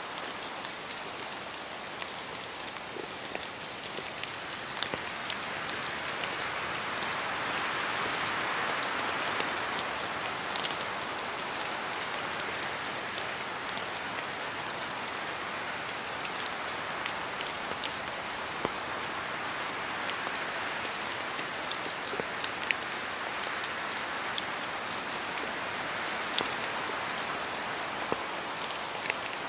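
Steady rain falling, with many individual drops ticking against it. The rain swells a little louder for several seconds, about a quarter of the way in.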